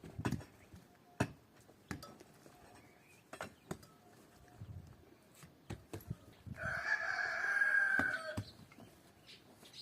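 A rooster crowing once, a held call of about two seconds beginning about two-thirds of the way in, over scattered light clicks and knocks.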